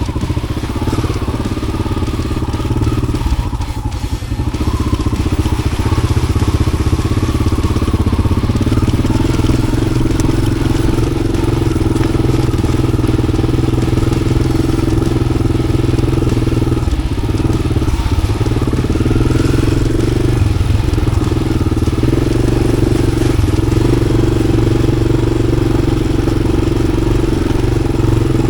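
1993 Yamaha XT600's single-cylinder four-stroke engine running through an aftermarket Arrow exhaust while the bike is ridden at a steady pace. There are a few brief throttle dips past the middle.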